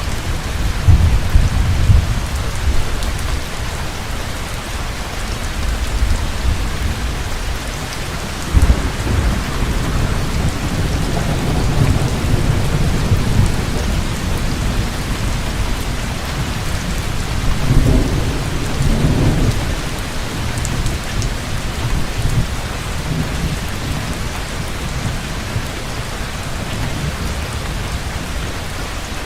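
Heavy rain falling steadily with rolling thunder: deep rumbles swell and fade several times, the strongest about a second in, around 9 s, and a long roll from about 11 to 19 s.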